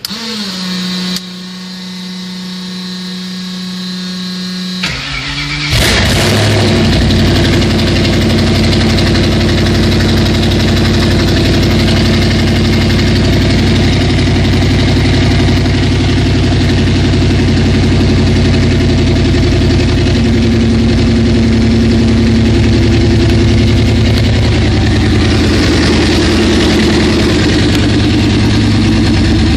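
Built, Whipple-supercharged Ford 5.4-litre V8 being started. A steady whine runs for about five seconds, then the engine fires about six seconds in and settles into a loud, steady idle.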